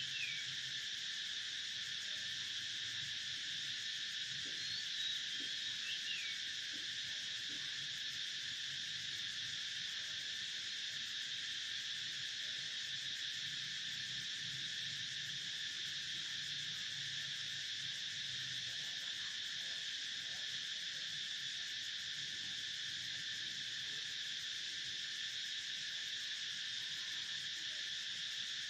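Steady chorus of crickets, an even, unbroken trilling, with a few short falling bird chirps in the first few seconds.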